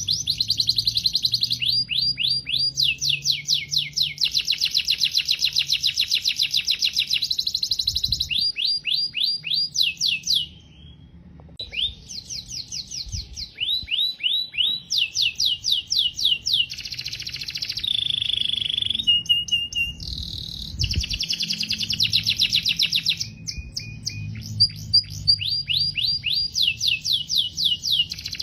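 Domestic canary singing a long song of rapid trills, each trill a fast run of repeated falling notes, several to a dozen a second, changing speed from one trill to the next. A short break about ten seconds in, and a few steady whistled notes about two-thirds of the way through.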